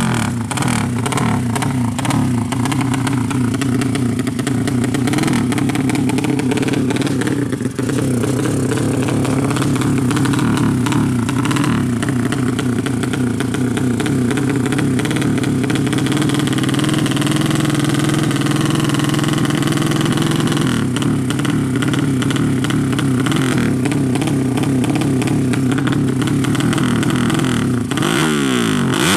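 A 200cc motorcycle engine running hard at a nearly constant pitch, then revving up and down near the end.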